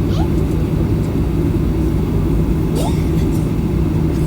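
Steady low rumble of a Boeing 737-800's CFM56 engines and airframe heard inside the passenger cabin, with faint voices in the background.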